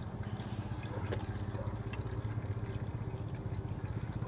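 Small battery motor of a toy tornado maker running with a steady, rapidly pulsing low hum, with a sharp click right at the end.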